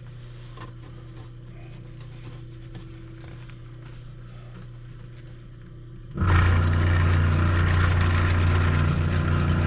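A steady low motor hum, then about six seconds in a 1949 Singer 151W3 walking foot sewing machine starts up loudly and runs, stitching at a steady speed.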